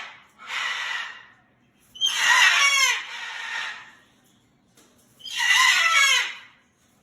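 Moluccan cockatoo screaming: two loud, harsh screams about three seconds apart, each about a second long, with shorter, quieter calls between them.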